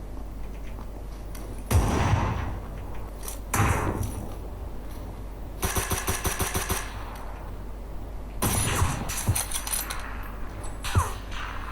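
Gunfire sound effects: single heavy shots, then a burst of rapid automatic fire about six seconds in, and more shots near the end.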